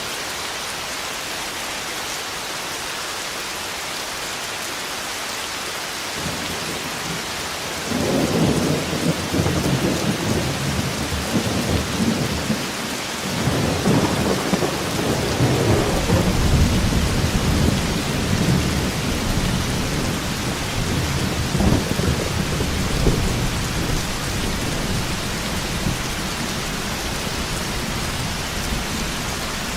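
Steady heavy rain with rolling thunder. A long, deep rumble builds about six seconds in, swells sharply around eight seconds and again around fourteen, then slowly dies away under the rain.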